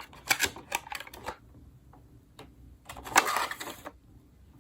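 Plastic doll packaging clicking and crinkling as a doll is pulled free of its box: a quick run of sharp clicks in the first second, then another burst of clatter about three seconds in.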